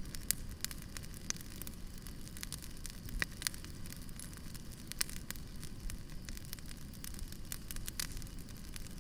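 Wood campfire crackling: irregular sharp pops and snaps over a low, steady rumble of the burning fire.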